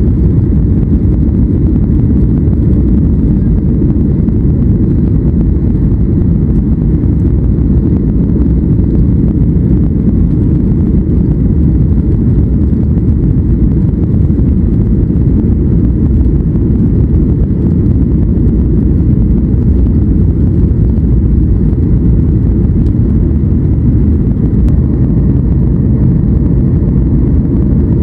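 Steady, loud low rumble inside the passenger cabin of a Boeing 737 MAX 8 jetliner: its CFM LEAP-1B turbofan engines and the airflow around the fuselage under way.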